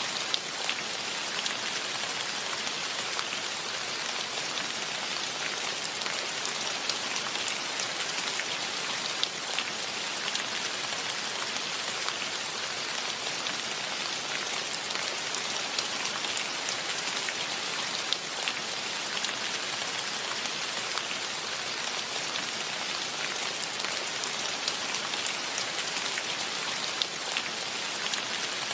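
Steady rain, an even hiss with scattered sharp ticks of individual drops landing close by.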